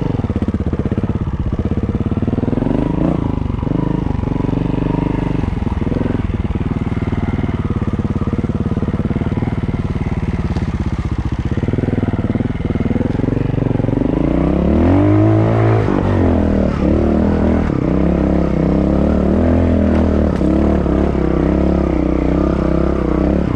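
Honda Montesa Cota 4RT trials bike's four-stroke single-cylinder engine running as it is ridden, the revs going up and down with the throttle, with one rev rising and falling about fifteen seconds in.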